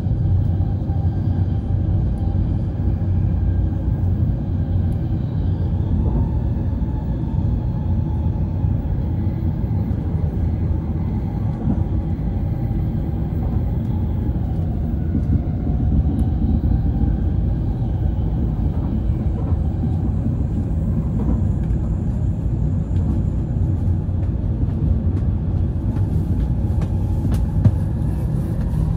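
Steady low rumble of a Shinkansen bullet train heard from inside the passenger car as it runs along the line, with a few brief clicks near the end.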